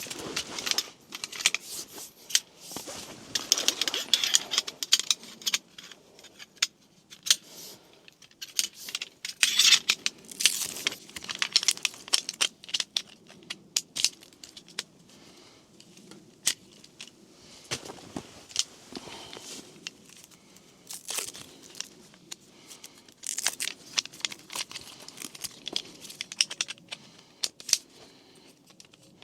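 Handling and setting up a folding camp cot: fabric and packaging rustling and crinkling, with scattered sharp clicks and knocks from the frame being unfolded and fitted together.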